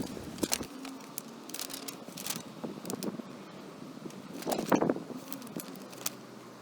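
Scattered sharp clicks and light knocks, louder for a moment about two-thirds of the way through, over a faint steady hum.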